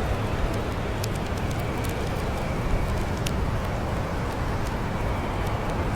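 Wood fire crackling, with scattered sharp pops over a steady low rumbling background.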